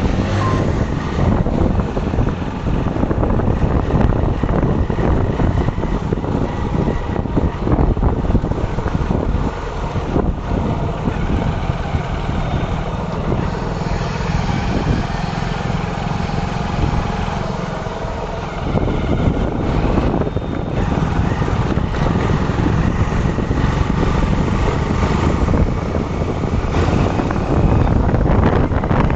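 Motorcycle riding through city traffic, its engine and the surrounding traffic heard as a steady low rumble, with wind buffeting the dashcam microphone. The sound lightens a little about eighteen seconds in, then builds again.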